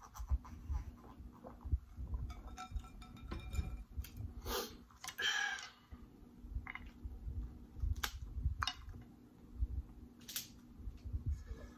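Close-miked eating sounds: chewing and mouth noises with scattered small clicks, as snow crab legs and a seafood boil are eaten. A louder crackling sound comes about four and a half seconds in and lasts about a second.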